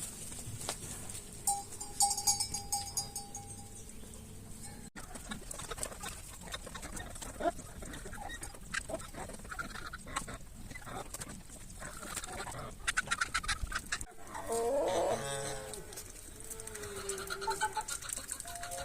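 Chickens and geese calling and clucking in a farmyard, with many light clicks and knocks among them and a louder wavering call a little past the middle.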